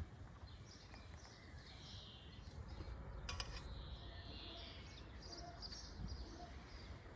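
Small birds singing and chirping, faint and continuous, over a low outdoor hum, with one short click about three seconds in.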